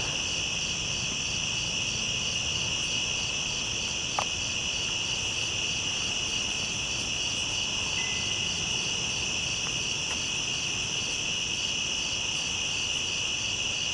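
Night chorus of crickets trilling steadily, a high continuous trill with a faint pulsing chirp woven through it. A faint click about four seconds in.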